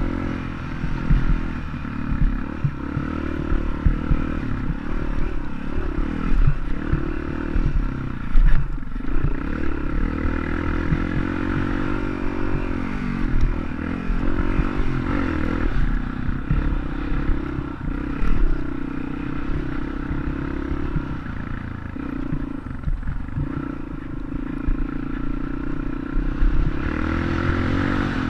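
Dirt bike engine running, its pitch rising and dipping again and again with the throttle, with clattering and rattling throughout.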